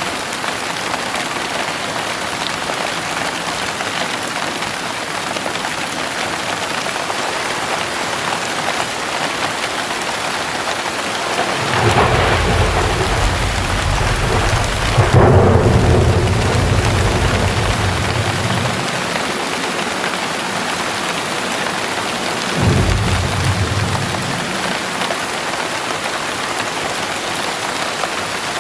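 Heavy rain falling steadily, with a long roll of thunder that builds about twelve seconds in, peaks and rumbles away over several seconds, then a shorter thunder rumble a few seconds later.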